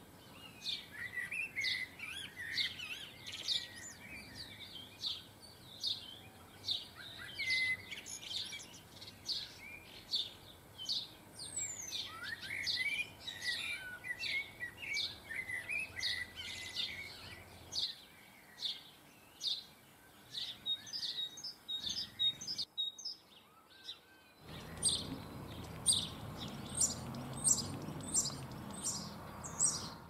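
Small garden birds chirping and twittering, with many short, sharp chirps repeated throughout. The calls and background drop out briefly about three-quarters of the way through, then the chirping resumes over a louder, low, steady background noise.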